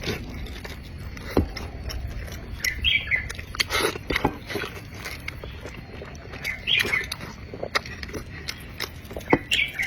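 Close-miked chewing and wet mouth smacking, with many sharp clicks and a few short squeaks.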